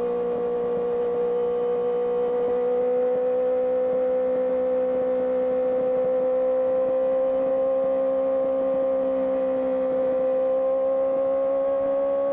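Honda CBR650R's inline-four engine through an IXIL IXRACE aftermarket exhaust, held at steady revs on the move, its pitch creeping slowly up.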